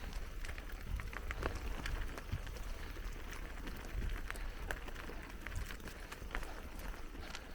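Bicycle tyres rolling over a gravel forest trail, with a dense scatter of small crunches and clicks over a steady low rumble.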